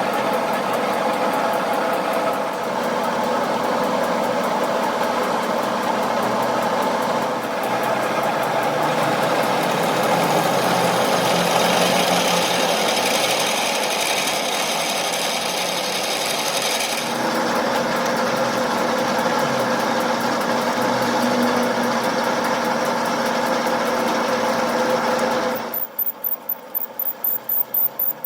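A machine or power tool in a workshop, running steadily with a whine of several tones that shifts about two-thirds of the way through. Near the end it drops away into a fast pulsing rattle.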